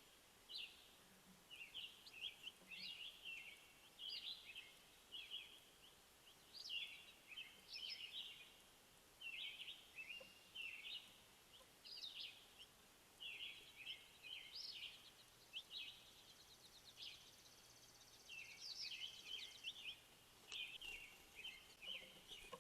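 Faint songbird calls: a steady run of short, high chirps, with a couple of quick trills about two-thirds of the way through.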